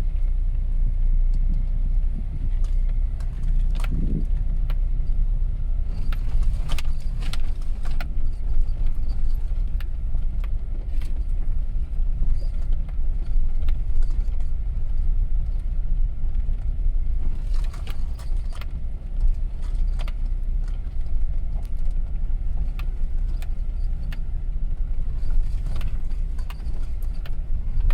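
Car driving slowly over a rough, rocky dirt track, heard from inside the cabin: a steady low engine and tyre rumble with frequent rattles and knocks as the car is jolted over stones.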